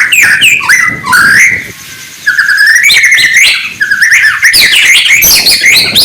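White-rumped shama (murai batu) singing a loud, rapid stream of varied whistled phrases with quick up-and-down glides, briefly pausing about two seconds in.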